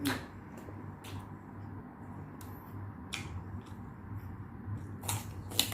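Close-miked eating sounds: chewing with a few sharp, wet mouth clicks and smacks, over a steady low hum.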